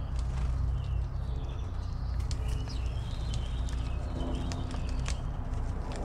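Small birds chirping with short, broken calls, among scattered sharp clicks, over a steady low hum.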